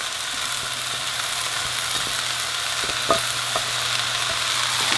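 Vegetables sizzling in a hot wok on a high flame as cooked rice is tipped in, a steady frying hiss with a low hum underneath. A couple of light knocks come a little after three seconds in.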